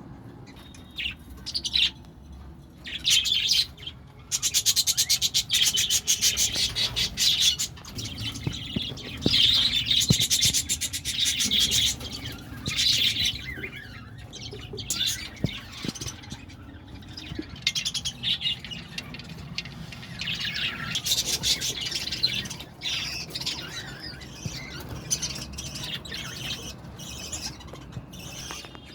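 A colony of budgerigars chattering and squawking in bursts of rapid warbling that come and go, busiest from about four to thirteen seconds in and again around twenty seconds.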